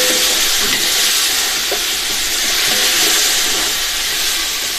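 Tomatoes and green chillies sizzling in hot ghee with fried onions and spices in a large aluminium pot, stirred with a perforated metal ladle. A steady frying hiss that eases off slightly near the end.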